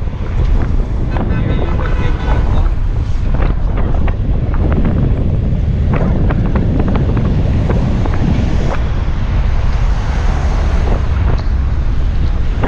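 Heavy wind buffeting the microphone on a moving motorbike, a loud steady rumble, with a few scattered clicks.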